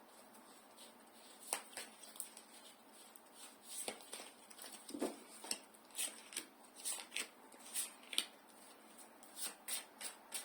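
Tarot cards being handled and laid out: an irregular run of soft clicks and rustling slides of card on card and table.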